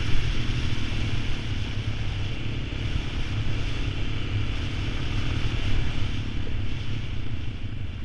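ATV running, a steady low rumble with a noisy hiss over it.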